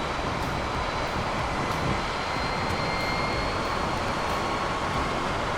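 Harley-Davidson LiveWire electric motorcycle under way: a steady rush of wind and road noise with a thin, high electric-motor whine that drifts slightly in pitch, and no engine sound.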